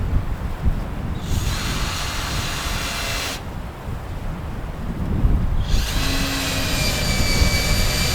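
Power drill running in two bursts: one of about two seconds, then a longer one starting about halfway through, its motor whine rising slightly. A low wind rumble runs underneath.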